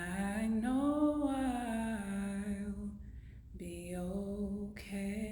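Solo a cappella voice singing long held notes, the first sliding up and back down about a second in; after a short break, two more held notes follow near the end.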